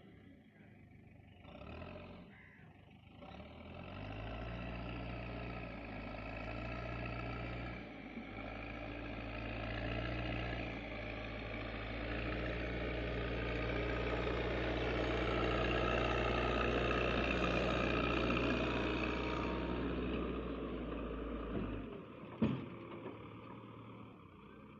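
Heavy diesel engine running and working hard, building in level for several seconds before dropping off suddenly near the end, followed by a single sharp knock.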